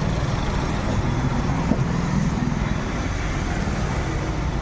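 Mahindra Thar's engine running steadily at idle with its newly repaired air conditioning switched on: a continuous low hum under an even hiss.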